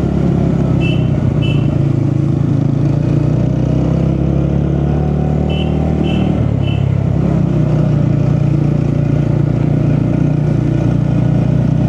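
TVS Ronin motorcycle's single-cylinder engine running steadily while riding, with a few short high double beeps about a second in and again around the middle.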